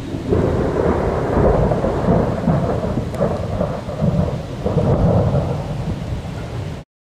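Thunder rumbling in long rolling swells over rain during a heavy electrical storm. The sound cuts off suddenly near the end.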